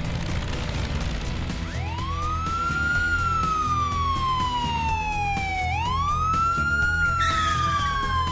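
Police car siren wailing, its pitch rising quickly and then falling slowly, twice, starting about two seconds in, over background music.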